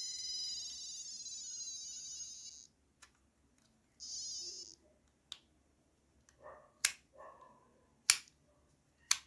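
A DT830D digital multimeter's continuity buzzer beeping. One long high-pitched beep stops about two and a half seconds in, and a shorter beep follows about a second later, showing the buzzer now sounds. Then come several sharp clicks.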